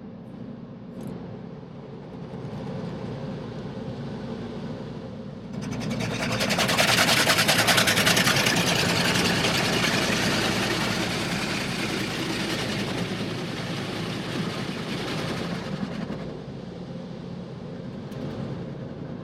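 High-pressure water jets of a touchless automatic car wash spraying over the car, heard from inside the cabin: a loud hiss that swells suddenly about five seconds in, peaks, then fades away some ten seconds later. A steady low hum runs underneath.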